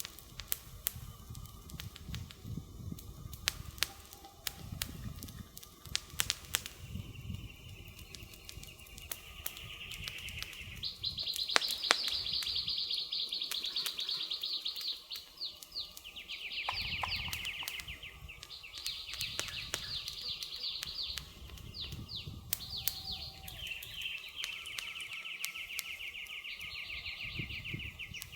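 Wood fire crackling, with sharp pops scattered throughout over a low rumble. From about a quarter of the way in, a high, buzzing trill comes and goes, loudest around the middle.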